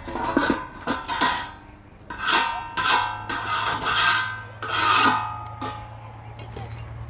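A run of rasping, scraping strokes, about eight of them at an uneven pace, fading out near the end.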